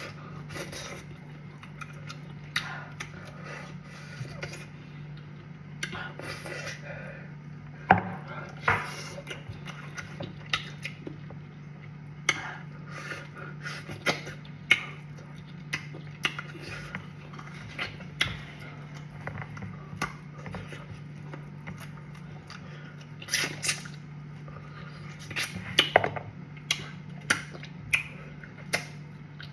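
Close-up eating sounds: chewing, with irregular sharp clicks and knocks of bowl and plate, over a steady low hum. The clicks come more thickly near the end.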